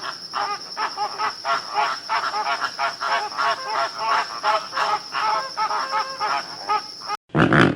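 An animal calling over and over, short pitched calls about three times a second with a steady high whine behind them. The calls cut off near the end and a brief, loud, different animal sound begins.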